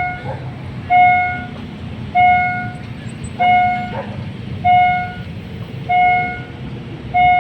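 Railway warning bell dinging evenly about once every 1.2 seconds, each ding ringing briefly and fading, over the low steady rumble of a diesel train.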